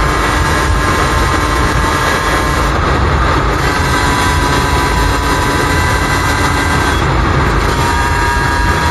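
Suzuki RM125 two-stroke dirt bike engine running under way, over a heavy steady low rumble. Its steady tone steps to a new pitch twice, as with a throttle or gear change.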